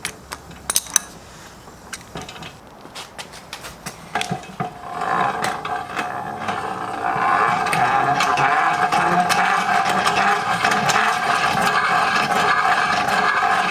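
Metal clicks and knocks as the antique pedal-powered grinder is handled, then the grinder is pedalled up to speed with its old stone on the arbor as a flywheel, giving a steady whir that builds for a few seconds and then holds.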